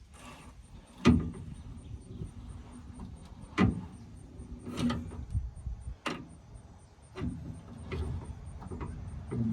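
Wrench cranking the spare tire winch under a 2000 Dodge Dakota to lower the cable, giving sharp clicks and knocks roughly once a second at an uneven pace.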